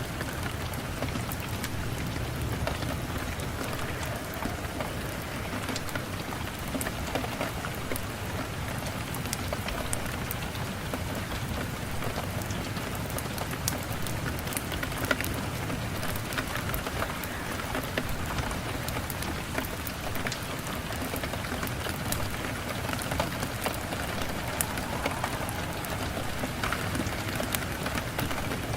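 Steady rain falling, with scattered sharp crackles and pops from a wood fire mixed in.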